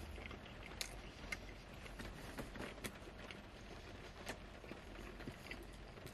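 Chewing a bite of pizza with the mouth closed: soft, irregular wet mouth clicks and smacks over a faint low hum.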